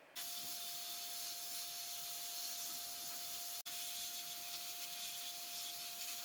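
A small motor-driven tool running steadily, a hissing rush with a constant hum-tone. It breaks off for an instant about three and a half seconds in.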